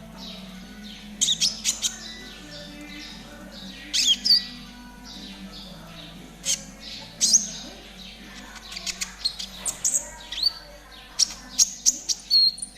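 Konin bird calls in rapid trotol style: clusters of sharp, high chirps and short falling whistles, coming faster as a quick run of chirps near the end. A steady low hum runs underneath.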